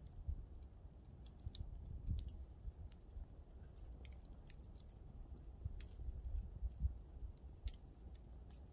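Campfire crackling: scattered sharp pops and snaps from the burning wood, at irregular intervals, over a low steady rumble.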